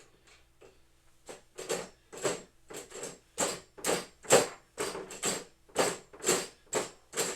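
A hand-worked mechanism going in repeated short strokes, about two a second, starting about a second in and getting louder.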